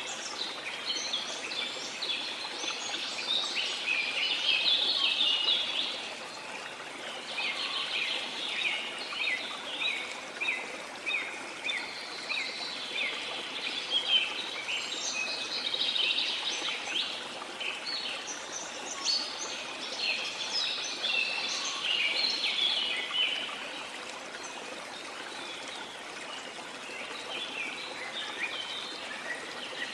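Small songbirds chirping and twittering in long, busy bursts over a steady wash of sea water. The birdsong falls away for a few seconds about three-quarters of the way through and starts again near the end.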